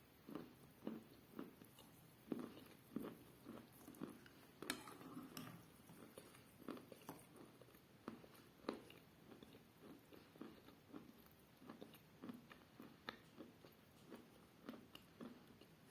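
Faint chewing of chalk close to the microphone: a steady run of short, dull crunches, about two a second.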